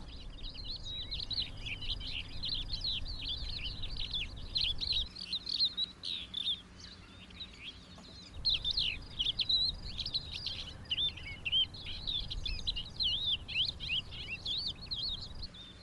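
Lark song: a fast, continuous run of warbling chirps and twitters that breaks off briefly about halfway through, then resumes.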